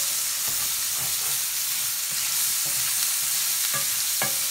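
Sliced mushrooms and onions sizzling in an enamelled cast-iron skillet: a steady frying hiss, with the scrape and tap of a wooden spatula stirring them and one louder knock near the end.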